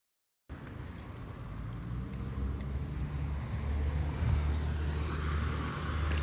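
Car engine and road rumble heard from inside the cabin, a steady low drone that grows slightly louder, with a faint high-pitched pulsing whine over it.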